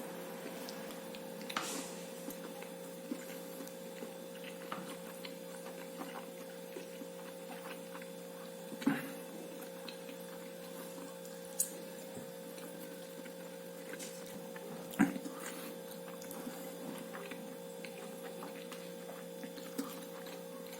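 A steady low electrical hum with a few faint, scattered clicks and soft knocks several seconds apart.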